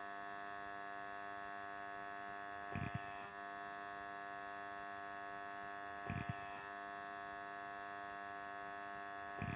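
Old AC contactor buzzing with a steady mains hum rich in overtones, with three faint short knocks. This noise is typical of rust and dust on the contactor's iron core.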